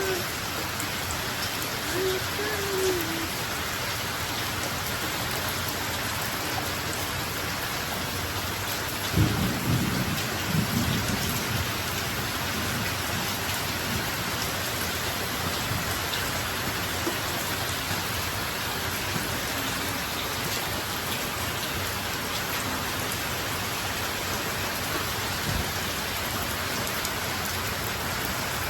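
Steady rain falling, with a low rumble of thunder about nine seconds in that dies away over a few seconds.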